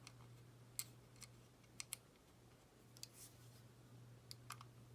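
Faint, scattered clicks and taps of a screwdriver working a small screw into plastic model parts, about half a dozen sharp ticks over a low steady hum.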